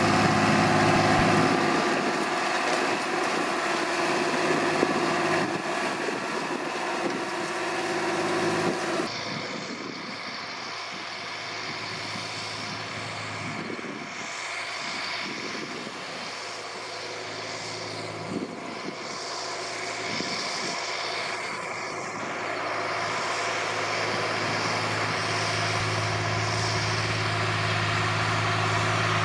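John Deere 8400 tractor's diesel engine running steadily under load while pulling a disc harrow through stalks. It drops in level and loses its top end about nine seconds in, with a few sharp clanks, then grows louder again near the end.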